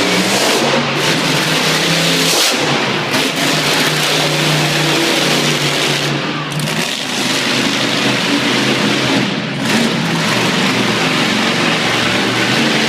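Monster truck engine running hard at high revs, with brief drops in throttle about a second in, around six seconds and near nine and a half seconds.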